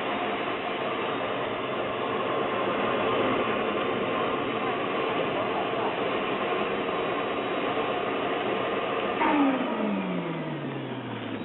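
Model jet's kerosene turbine engine running with a steady roar. About nine seconds in it swells briefly, and then a whine falls steadily in pitch over the last two seconds.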